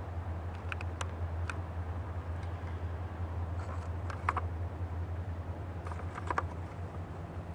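Low steady rumble of a slow-approaching diesel freight train, with a few faint scattered clicks.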